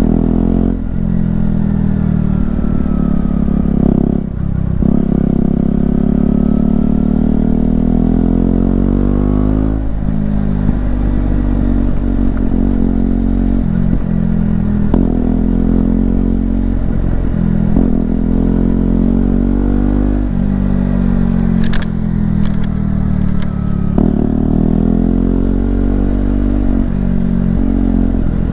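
KTM 125 Duke's single-cylinder four-stroke engine under way, revving up through the gears and easing off again and again, with short dips in the engine note at each gear change.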